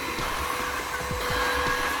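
Cordless wet-dry vacuum mop running, a steady motor whine over rushing air.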